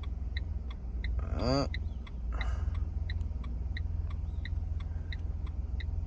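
Car cabin with the engine's low hum underneath and the turn-signal indicator ticking steadily, the clicks alternating strong and weak in a tick-tock rhythm. A brief sliding tone sounds about a second and a half in.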